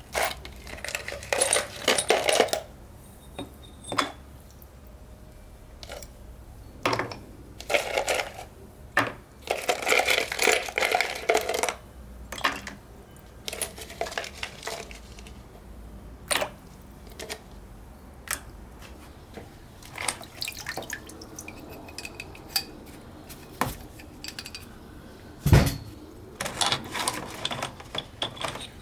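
Metal vise parts clinking, clattering and scraping against each other and a hard surface as they are handled, in short bursts with single clicks between, and one heavier knock near the end.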